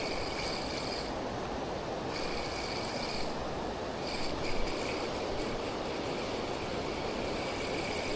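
Spinning reel being wound in spells of about a second, its gears whirring, over the steady rush of water from a weir.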